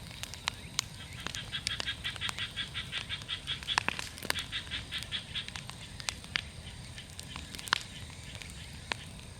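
Big wood bonfire crackling, with sharp pops scattered throughout. From about a second in until past the middle, a rapid, evenly pulsed high-pitched animal call goes on at about six pulses a second.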